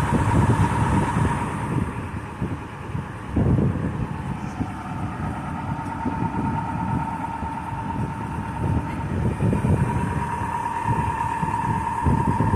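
Wind buffeting the microphone in gusts over a boat running under engine, with a steady high hum throughout.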